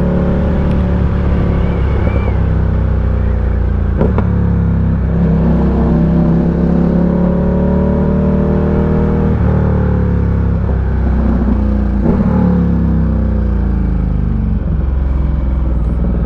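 Ducati Diavel 1260's V-twin engine running under load on a mountain climb, its revs rising and falling several times as the rider works the throttle and gears.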